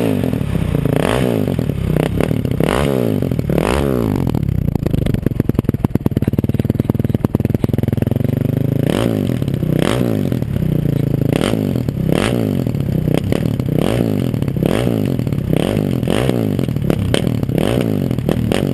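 2006 Honda CRF450's single-cylinder four-stroke engine, breathing through a White Bros slip-on exhaust, being blipped again and again: the revs shoot up and drop back several times, settle to a steadier low run for a few seconds in the middle, then resume the quick blips.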